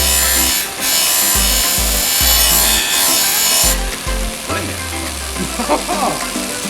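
Abrasive rubbing on the aluminium engine cover of a Honda Monkey, a continuous rough rasping that is strongest for the first few seconds and then eases, over background music with a steady bass beat.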